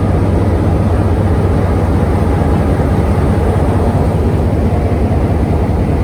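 Moving train running: a loud, steady rumble with a rush of noise over it, as heard from on board.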